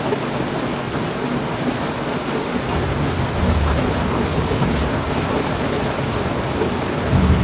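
Heavy rain falling steadily, with low rumbles of thunder a few seconds in and again near the end.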